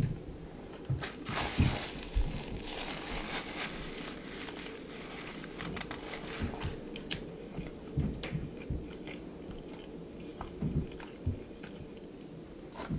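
A person chewing a mouthful of crunchy fried food, with soft irregular crunches.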